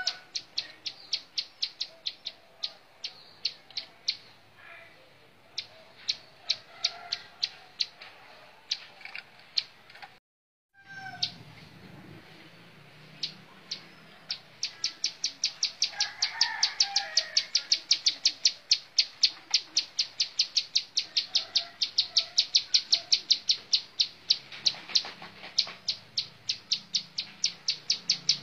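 Plain prinia (ciblek sawah) singing: a long series of sharp, high notes repeated evenly, about three or four a second, sparse at first and then a steady fast run from about halfway on. The sound cuts out briefly about ten seconds in.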